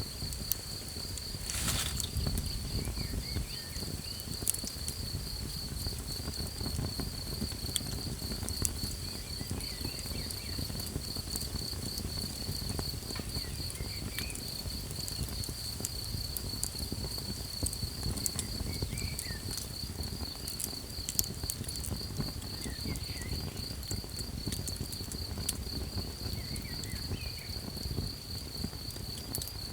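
Night insects trilling in a high, steady, rapidly pulsing tone, over a small campfire crackling with scattered sharp pops and a low rumble. One louder pop comes about two seconds in.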